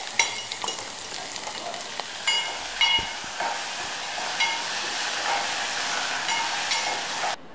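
Food sizzling in hot oil in an aluminium pot on a gas stove, with a metal spoon stirring and clinking against the pot about nine times. The sizzle cuts off suddenly near the end.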